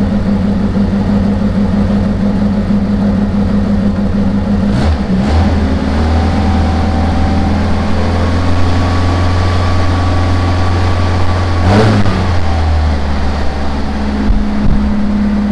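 A 1982 Datsun 210's four-cylinder engine running at idle. About five seconds in it is given a little gas and held at a higher speed, and about twelve seconds in it drops back to idle. The alternator is not charging: the battery voltage falls as the revs rise.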